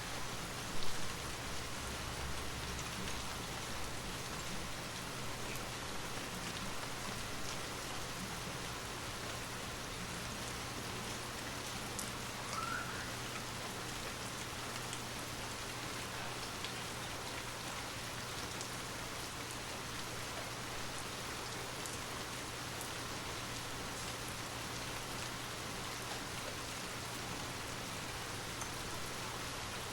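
Steady rain falling: an even hiss with faint scattered drop ticks. There is one brief, louder knock about a second in.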